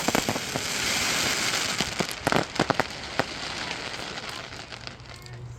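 Fireworks crackling in a dense hiss like heavy rain, loudest in the first two seconds and slowly fading, with a few sharp bangs in the middle.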